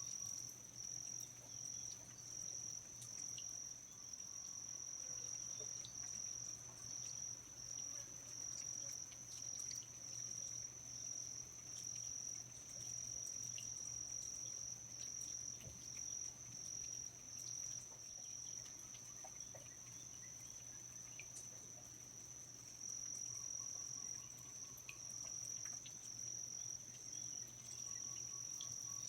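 Rainforest insects, likely crickets, chirring in one steady, unbroken high-pitched trill, with a faint low hum underneath.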